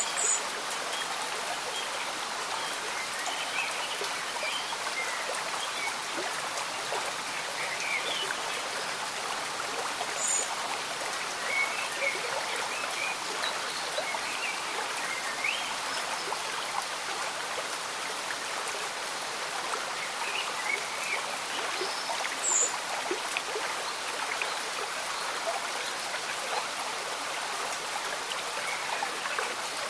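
Slow-moving stream bubbling and trickling under steady light rain, an even hiss with scattered small splashes and gurgles.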